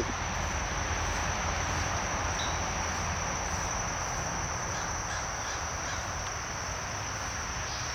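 Steady insect chorus with one constant high-pitched drone, over an even background hiss and a faint low hum.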